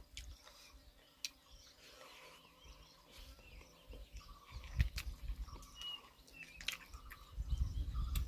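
A person chewing a mouthful of food, with scattered short clicks and smacks. A bird chirps briefly in the background.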